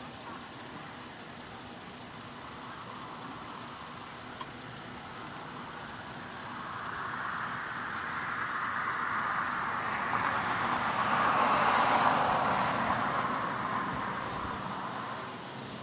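A vehicle driving past, its tyre and engine noise swelling to a peak about twelve seconds in and then fading away.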